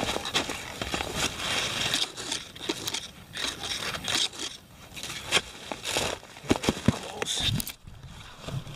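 A digging tool cutting into earth: soil and clods crunching and scraping in irregular strokes, with a few sharper strikes about six to seven seconds in, while a target is dug out about six inches down.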